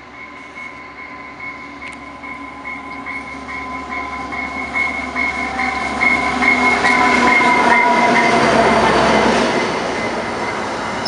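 Diesel-hauled commuter train with bi-level passenger cars approaching and passing close by, growing steadily louder to a peak about seven to nine seconds in as the locomotive goes past, then the cars rolling by on the rails.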